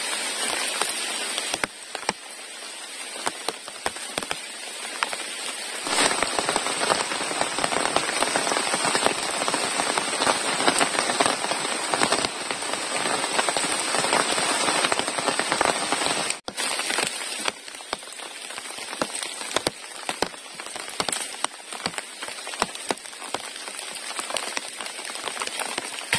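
Rain pattering steadily on open water, a dense spray of fine drop ticks. It gets heavier about six seconds in and breaks off abruptly for a moment about sixteen seconds in before settling back to a lighter patter.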